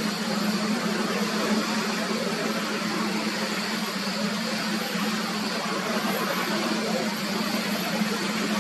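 Jet airliner engines running steadily at low power, a constant drone with a low hum and hiss that neither rises nor falls.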